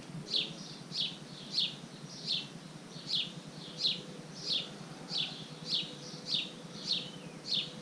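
Golden eagle calling: a steady series of short, high, downward-sliding chirps, about one and a half a second.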